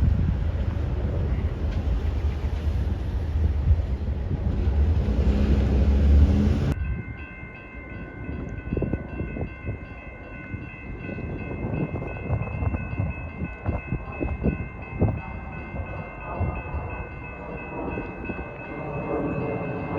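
Train passing: a heavy low rumble, then, after an abrupt cut about seven seconds in, wheels knocking and clicking over the rails under steady high ringing tones.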